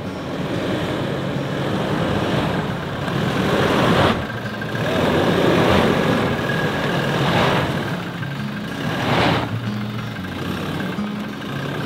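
A car's engine pulling the vehicle up a steep dirt track, rising and falling in surges, loudest about four seconds in and again near nine seconds.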